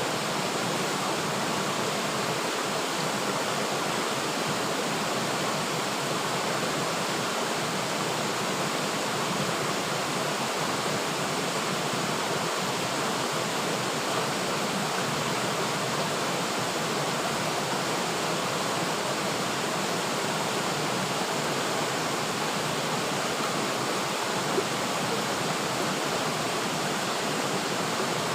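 A river flowing, its rushing water making a steady, even hiss.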